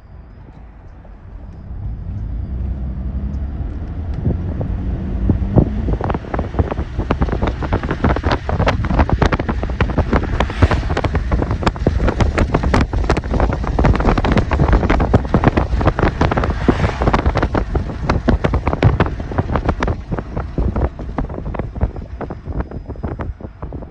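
Union Pacific freight train passing close by: a diesel locomotive's engine drone builds over the first few seconds, then the wheels clatter on the rails in a dense run of sharp clicks that eases near the end. Wind buffets the microphone.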